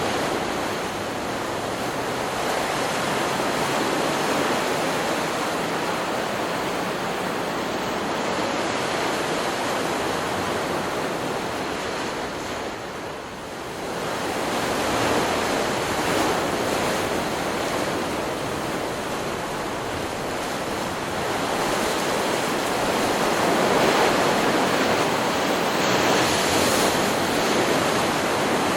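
Ocean surf: waves breaking and washing up the shore in a continuous rush. It eases briefly about halfway through and builds again near the end.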